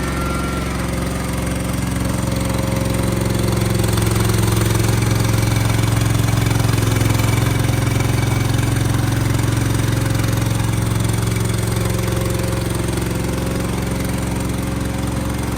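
An engine running steadily at a constant speed, with a low, even hum that swells slightly in the middle and eases again.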